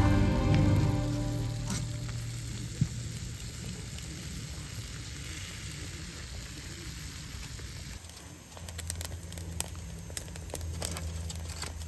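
Food sizzling steadily as it cooks in a hot pan over a fire, with background music fading out in the first second or two. From about eight seconds in the sound changes to a low hum with scattered clicks.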